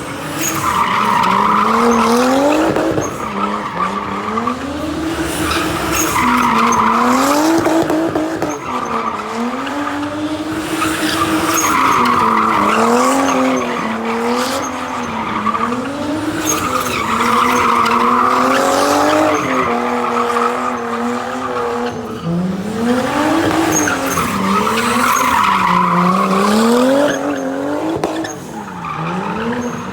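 A drifting car's engine revving up and down over and over, with tyres squealing in long screeches that come back every few seconds.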